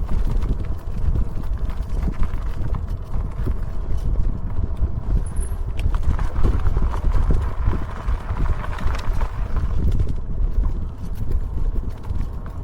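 Wind rumbling on the microphone of a moving e-bike, with dense, irregular knocks and rattles over rough ground.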